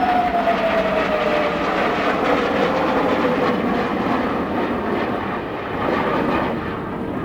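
A display jet flying past: a steady engine roar with a whine that falls in pitch over the first few seconds as the aircraft passes and moves away.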